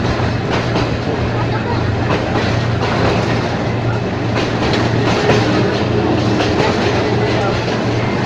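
Ex-JR 203 series train running along the track, with a steady rumbling hum and irregular clickety-clack of wheels passing over rail joints.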